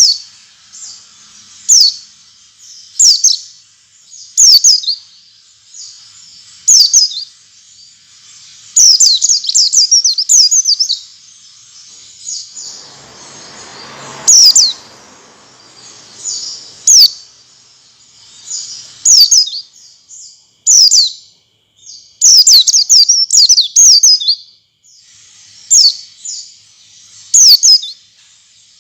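White-eyes (pleci) calling: short, high, thin chirps that sweep downward, given singly or in quick runs every second or two, used as a lure call to set caged pleci singing. A faint low rustling noise rises and fades about halfway through.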